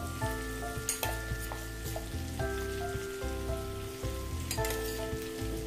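Marinated chicken sizzling and frying in hot masala gravy in a pan as it is stirred, with a few sharp clicks about a second in and near the end. Gentle instrumental background music plays steadily over it.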